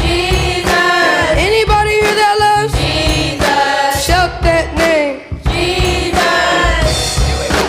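Gospel choir singing long held, gliding notes over a live band with drums and bass.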